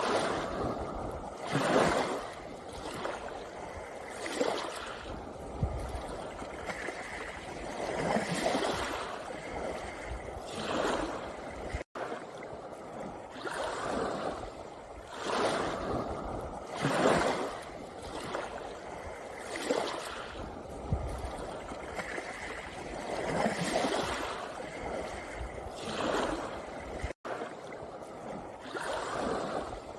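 Sea waves washing in and out over a pebble beach, each surge swelling and fading every two to three seconds, with two split-second gaps where the sound drops out.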